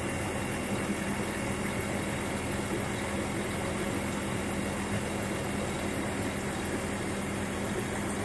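Vehicle engine idling steadily, heard from inside the cab: an even rumble with a constant low hum.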